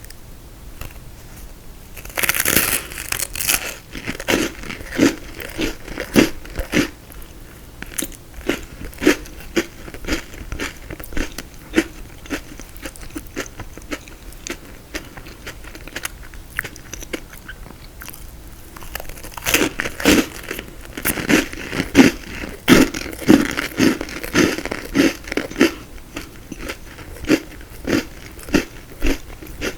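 A person biting and chewing frozen tiramisu close to the microphone: crisp crunches from the frozen ladyfinger and mascarpone layers. The crunching comes in two dense spells, one about two seconds in and a longer one about two thirds of the way through, with slower chewing clicks between.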